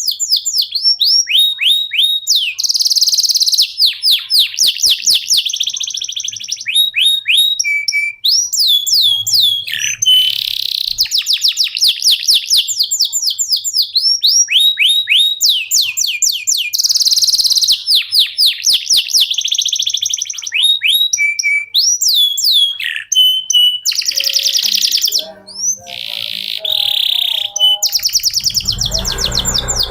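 Domestic canary singing a long, almost unbroken song of rapid trills and rolls, fast repeated sweeping notes alternating with buzzier phrases. A low rumble comes in under the song near the end.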